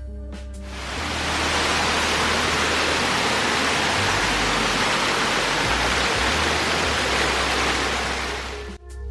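Waterfall: rushing water as a steady hiss. It fades in about half a second in and cuts off suddenly near the end, with low notes of background music underneath.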